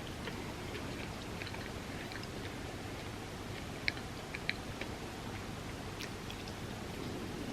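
Close-miked chewing and eating mouth sounds, with a few small sharp mouth clicks, the loudest about four seconds in, over a steady background hiss.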